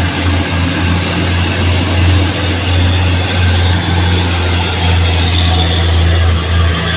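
Heavy truck's diesel engine running steadily, a deep low hum with little change in pitch.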